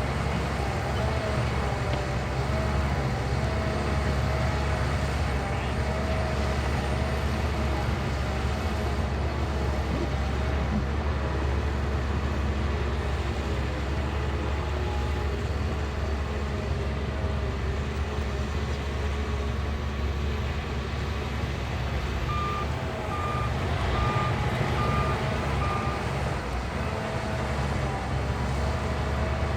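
Shantui bulldozer's diesel engine running steadily with a deep rumble and a wavering whine. Near the end a reversing alarm beeps about five times.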